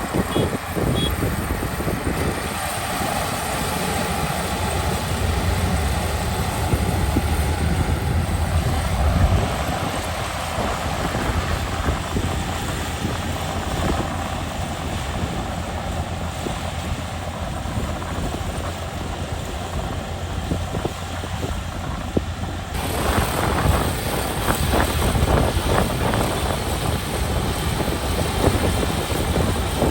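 Kubota ER572 combine harvester's 72-horsepower diesel engine and threshing machinery running steadily while harvesting, with wind on the microphone. The sound shifts abruptly about two-thirds of the way through.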